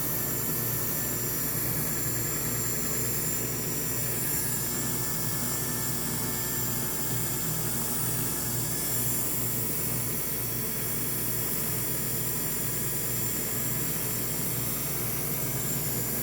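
Mini washing machine running, a steady motor hum with hiss.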